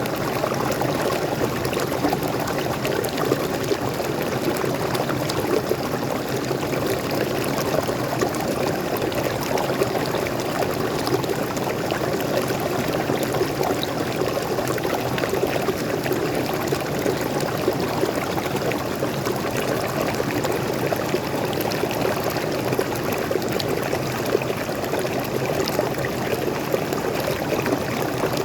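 Small waterfall and stream water falling and running, a steady even splashing rush with no breaks.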